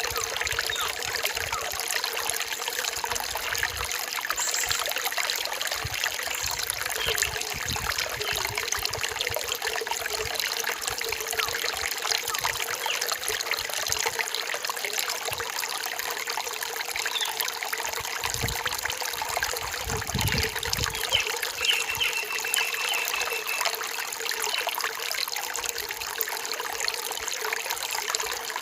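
Forest stream trickling and splashing steadily. About three-quarters of the way in, a brief high, even-pitched call sounds over the water.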